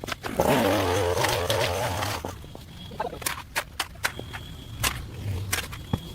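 Shovel working waterlogged mud and sediment in a drainage ditch: a loud, wet scraping rush lasting under two seconds, then a run of sharp scrapes and knocks as the blade strikes and lifts the mud.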